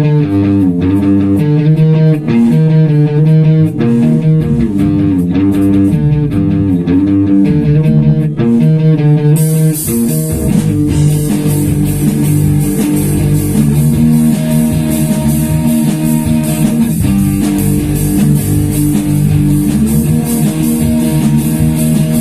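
Rock band playing an instrumental intro: a picked electric guitar riff over bass, with the full band joining about nine and a half seconds in.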